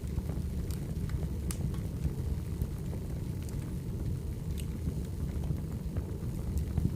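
Firewood burning: a steady low rumble with sharp crackles and pops at irregular intervals.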